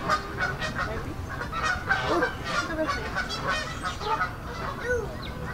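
Birds calling, with many short calls overlapping, several a second.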